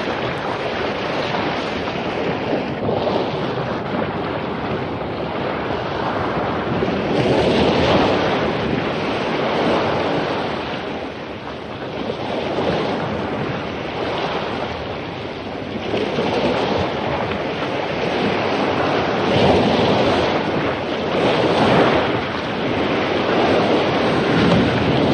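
Ocean waves breaking on a beach in rough post-storm surf: a continuous wash that swells and eases every few seconds as each wave crashes.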